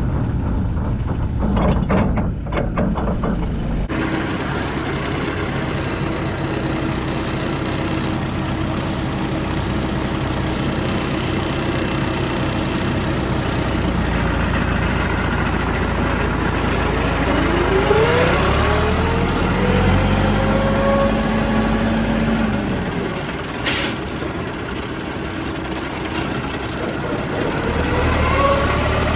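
Tractor engine running steadily, with an abrupt change in its sound about four seconds in and the engine pitch rising and levelling off about halfway through.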